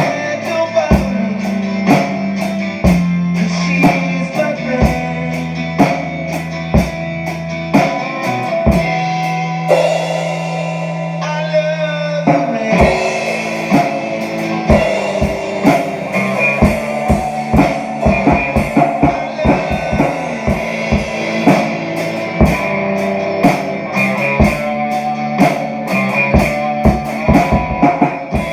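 Rock song with electric guitar and bass, and a drum kit played along to it. About ten seconds in the bass and drums drop out, leaving the guitar; a couple of seconds later the drums come back with quick, close-packed hits.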